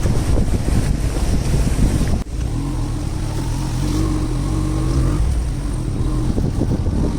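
Loud rushing of monsoon floodwater at a bridge, with wind buffeting the microphone. It breaks off abruptly about two seconds in. After the break a steady pitched hum like a distant motor runs for a few seconds.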